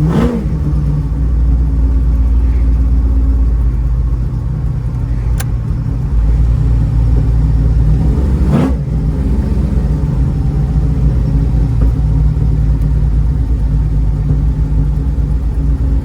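1955 Chevrolet Bel Air's V8 running as the car drives, its note rising and then dropping twice, once near the start and once about halfway through. A single sharp click comes in between.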